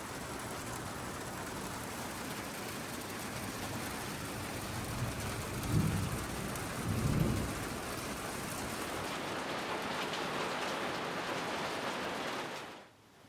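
Heavy rain falling steadily, with two short low rumbles of thunder about halfway through. The rain cuts off abruptly near the end.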